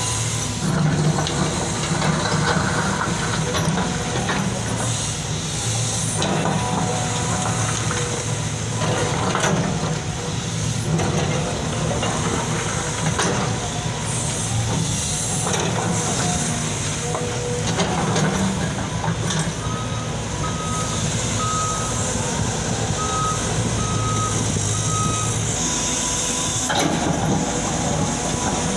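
Diesel engines of excavators running steadily while digging, with occasional knocks. About two-thirds of the way through, a backup alarm beeps six times, about one beep a second.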